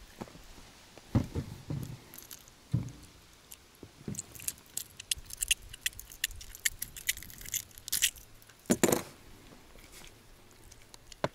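Irregular clicks, scrapes and knocks from spinning tackle and the boat being handled, with a quick patter of small ticks in the middle. There is a louder burst about nine seconds in and a sharp click at the end.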